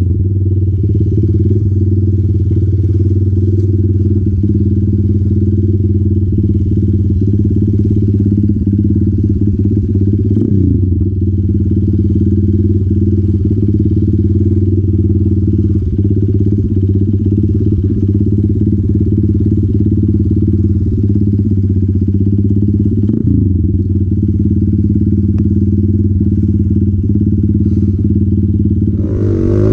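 Single-cylinder dirt motorcycle engine, a Hero Impulse, running steadily at an even pitch, with a few faint knocks.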